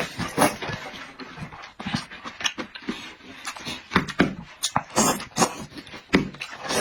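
Close-up eating sounds: a person chewing and smacking their lips, with irregular short smacks and clicks several times a second.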